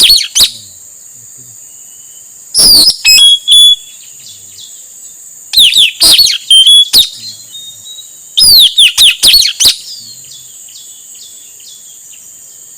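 Male blue-rumped parrot (nuri tanau) calling in bursts of sharp, high, downward-slurred chirps, with a new burst about every three seconds, over a steady high hiss.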